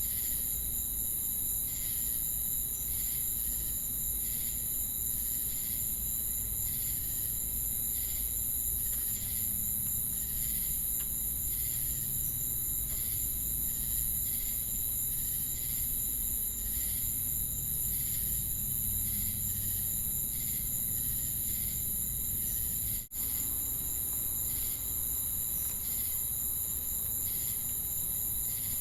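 Insect chorus of crickets and cicadas: a continuous high-pitched shrill drone with rhythmic chirps repeating a little faster than once a second. The sound cuts out for an instant about three-quarters of the way through.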